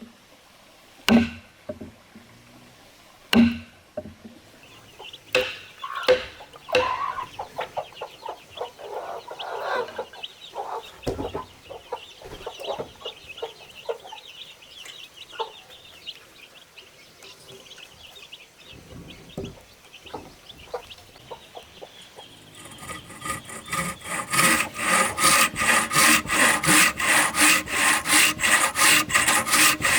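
A few sharp knocks on wood in the first seven seconds, then hens clucking. From about two-thirds of the way in, a hand tool rubs back and forth on wood in steady strokes, about two a second.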